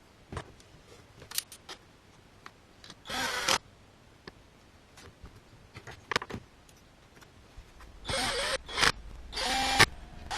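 Tools and metal engine parts clicking and knocking as a motorcycle's lower crankcase is bolted back on. There is a short buzzing burst about three seconds in, and a cluster of short bursts near the end, typical of a power tool running in brief spurts.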